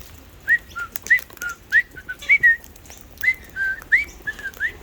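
A run of about a dozen short whistled notes, many swooping upward, alternating between higher and lower pitches, with faint clicks in between.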